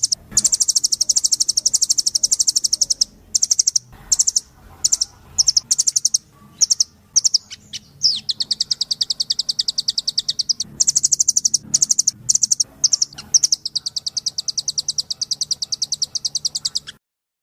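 Velvet-fronted nuthatch (rambatan doraemon) singing long, fast trills of rapidly repeated high notes, in runs of several seconds broken by short pauses; one run in the middle sits lower in pitch. The recording stops abruptly near the end.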